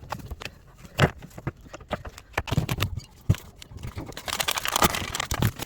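Irregular knocks and clatter of hand work on a washing machine during reassembly, with one sharp knock about a second in and a denser run of rattling clatter near the end.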